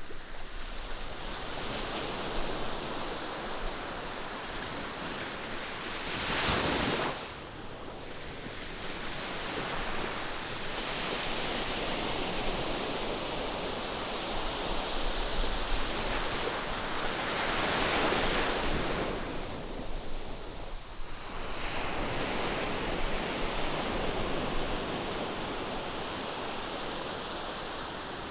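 Ocean surf breaking and washing on the shore, a steady wash that swells and eases, with a brief sharp surge about a quarter of the way in and a slower swell about two-thirds through. Some wind buffets the microphone.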